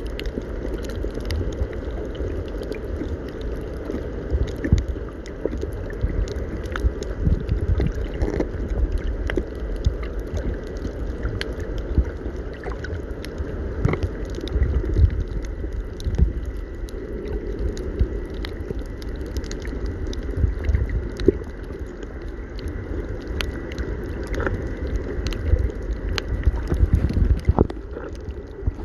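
Steady water noise with a low rumble and many small clicks and pops scattered throughout.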